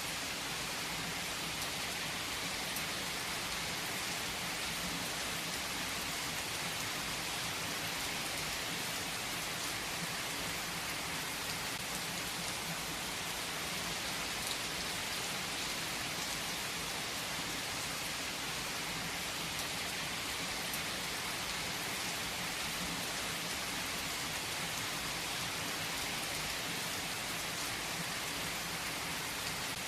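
Steady rain falling and pattering on a surface, an even hiss of many small drops with no breaks.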